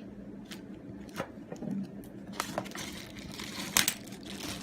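Handling noise from unpacking a plastic model aircraft: light crinkling of packaging with scattered clicks and taps of plastic parts, one sharper click near the end, over a low steady hum.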